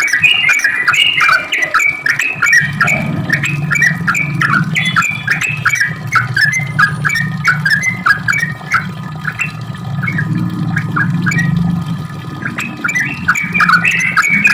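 Yellow-vented bulbul (trucuk) singing a long, unbroken run of quick chattering, bubbling notes. A steady low hum sits underneath from a few seconds in until near the end.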